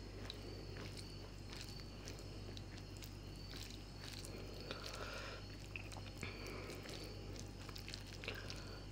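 Faint soft clicks and squishy handling sounds of rice and fish curry being picked at and gathered for a first bite, over a steady low hum.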